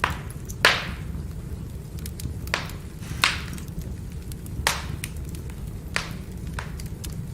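Firewood burning: a steady low rumble of the fire with sharp crackling pops of the logs every second or so, the loudest under a second in.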